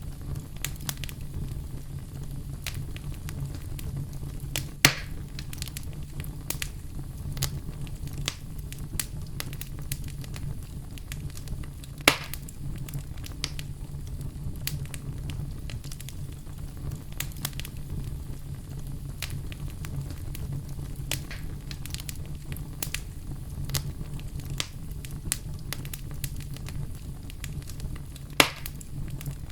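Campfire burning: a steady low rumble of flames under constant crackling, with three sharp, loud pops about five seconds in, about twelve seconds in and near the end.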